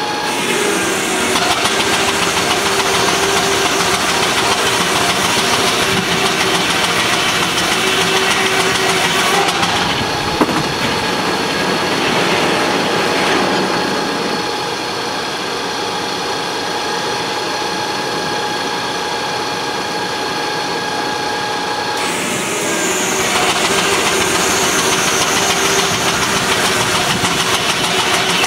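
Sawmill machinery running steadily, with a continuous whine over a noisy mechanical din. The sound changes abruptly several times.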